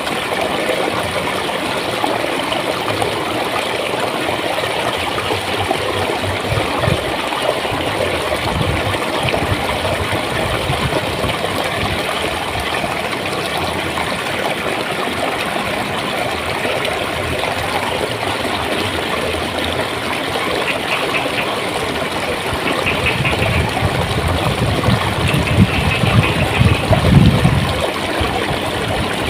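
Flowing stream water, a steady gurgling rush, swelling with a louder low rumble near the end.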